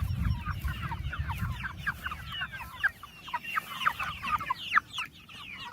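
A flock of meat chickens in a chicken tractor clucking and cheeping, many short falling calls overlapping, with a low rumble under the first couple of seconds.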